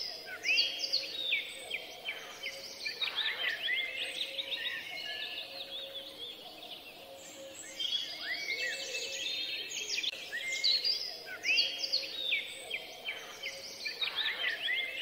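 Birds chirping and singing: a busy chorus of many quick chirps and trills from several birds, with a few lower whistled notes now and then.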